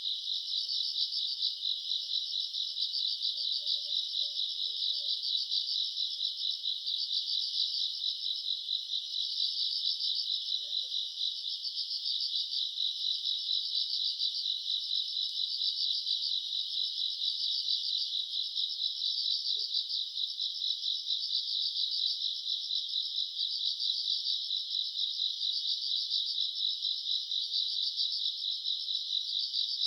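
Night chorus of grass insects chirping without a break: a dense, high-pitched, rapidly pulsing trill that holds steady throughout.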